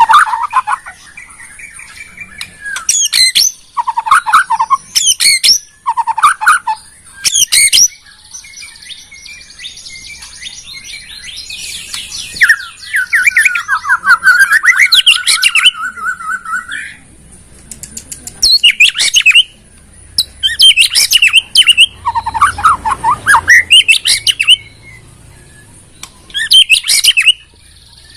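White-rumped shama (murai batu) singing: loud, varied phrases of short whistled notes and sharp high notes, separated by brief pauses, with a long run of fast repeated notes about halfway through.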